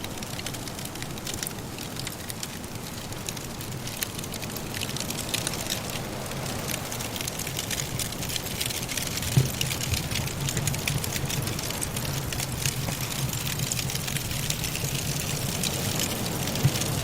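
Wood fire crackling and popping in a fireplace, with many small crackles over a low steady rumble and one sharper pop about nine seconds in.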